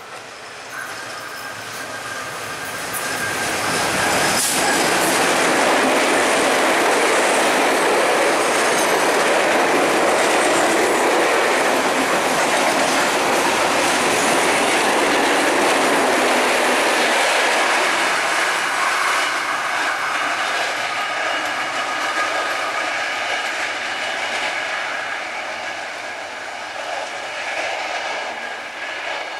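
Diesel-hauled passenger train passing at speed. The sound builds as it approaches, then the coaches rush past with wheels clattering over the rail joints and a steady high whine, before slowly fading as the train goes away.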